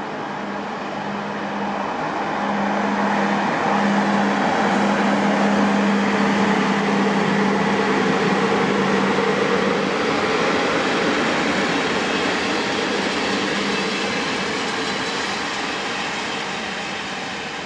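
Regional passenger train hauled by a CFR Class 40 electric locomotive passing and moving away: the rolling noise of wheels on rails swells to a peak about four to ten seconds in, then fades. A steady low hum runs through the first ten seconds.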